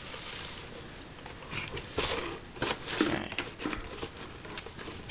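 Packaging being rustled and handled as a box is unpacked, with scattered light clicks and crinkles.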